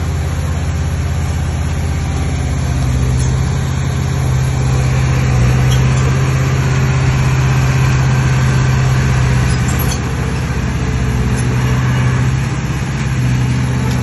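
Heavy diesel engine of an earthmoving machine running steadily, its level swelling and easing slightly a few times.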